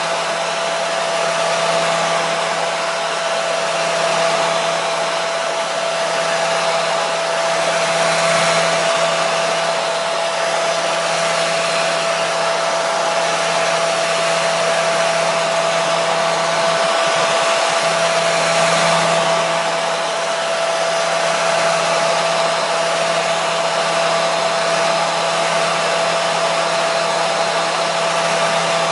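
Hair dryer running continuously: a steady rush of air with a constant motor hum and a steady whine.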